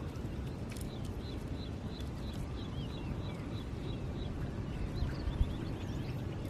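A bird calling in a quick run of short, repeated high notes, about four a second, then scattered chirps, over a steady low rumble.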